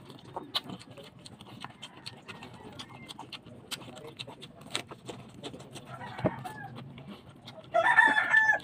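Close-up chewing of a cabbage-leaf wrap of grilled eggplant: a run of quick wet mouth clicks and crunches. Near the end a short, loud pitched call, under a second long, stands out over the chewing.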